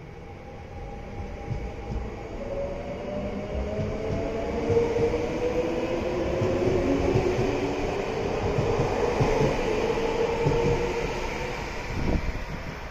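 Kintetsu narrow-gauge electric commuter train running through the station. The sound builds over the first few seconds, with a whine that slowly shifts in pitch and a run of low knocks from the wheels on the rails. There are heavier knocks near the end.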